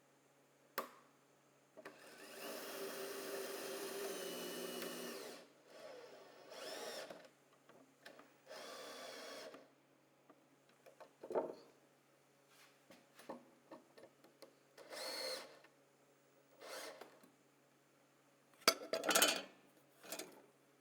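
Power drill driving screws into the wood in bursts: one longer run of about three seconds, then several short runs that rise in pitch as the motor speeds up. Sharp knocks come between them, a cluster of them near the end.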